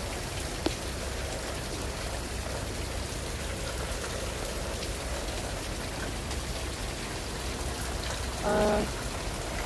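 Heavy rain pouring down, a steady hiss of rain on surfaces. There is one sharp tick a little under a second in, and a brief pitched sound near the end.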